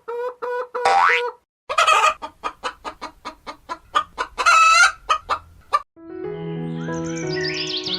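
Hen clucking in a rapid series, about four or five clucks a second, with one longer, louder squawk in the middle. A short rising whistle-like glide comes just before the clucking, and background music with bird chirps starts about six seconds in.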